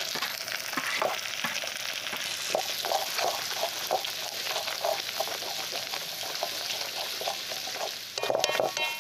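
Onion and capsicum pieces sizzling in hot oil in a metal wok, stirred with a wooden spatula that scrapes and pushes them around the pan in repeated strokes.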